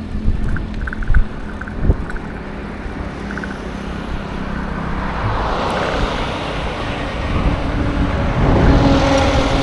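Road traffic with wind on the microphone: a steady low rumble with a few knocks in the first two seconds, then a motor vehicle approaching and passing, loudest near the end with an engine hum.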